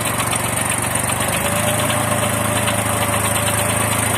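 Mini tractor engine running steadily with a homemade mower attached, its tone changing slightly about a second and a half in.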